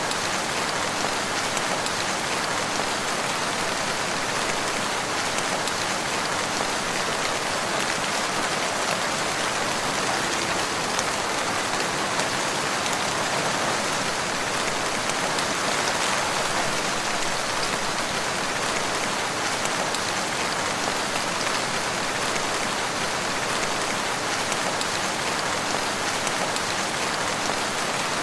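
Steady rain falling and pattering on surfaces, an even hiss without change or pause.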